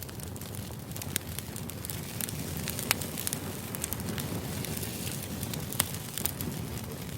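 Crackling fire ambience: a steady low rush with sharp, irregular pops and snaps a few times a second.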